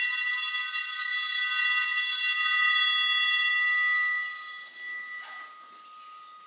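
Altar bells ringing at the elevation of the chalice during the consecration at Mass, held steady for about three seconds and then fading away.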